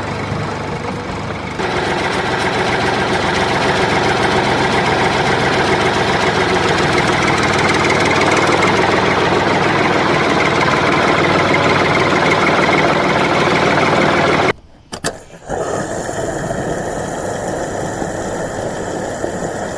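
A motor running steadily and loudly. It drops out for about a second near fifteen seconds in, then carries on with a slightly different tone.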